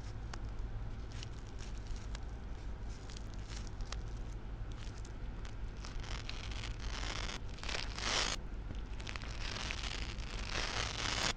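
Plastic packaging crinkling and rustling as a cupcake squishy toy is handled, with scattered small crackles and two longer, louder stretches of crinkling in the second half.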